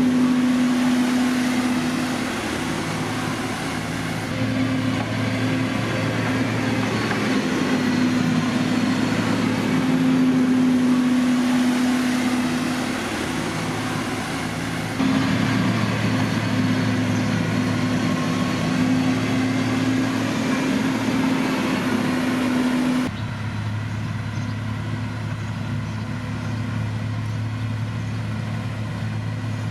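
Diesel engine of heavy road-construction machinery running steadily, a low hum, changing abruptly in tone and level about 4, 15 and 23 seconds in.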